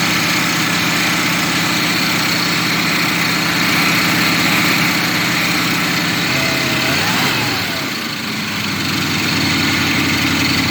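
Propane-fuelled truck engine idling steadily. About six seconds in, its pitch wavers and the sound dips briefly before it settles back into a steady idle.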